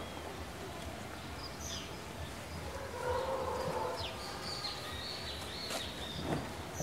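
Quiet outdoor ambience with birds chirping now and then.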